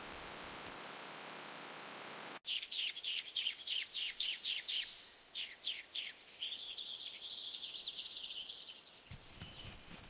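A steady hiss, then after a sudden cut a songbird singing: a fast series of high, repeated notes, then a continuous twittering warble.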